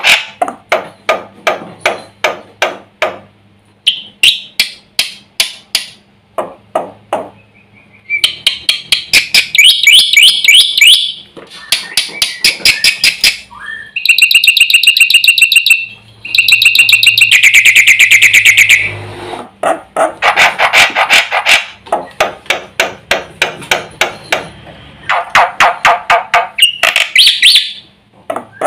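Black-winged myna (jalak putih) singing loudly and persistently: long runs of sharp, quickly repeated notes, several a second, broken by harsh, fast chattering trills, a full song mixed with imitated phrases.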